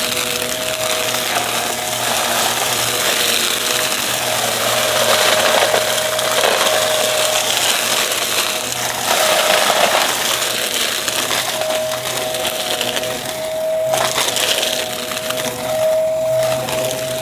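Aspiron vacuum cleaner running with a steady motor whine while it sucks up crunchy dry debris, which crackles and rattles continuously through the nozzle.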